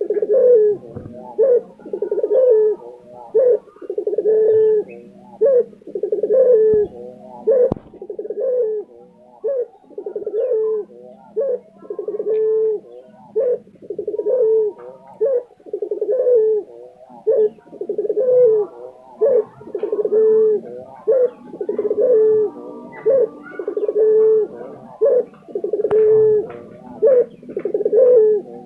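Lutino ringneck dove (puter) cooing over and over without a break, about one coo a second.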